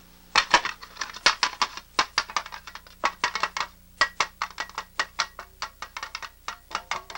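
A rapid, irregular run of sharp clicks and clacks, several a second, from a dubbed sound effect.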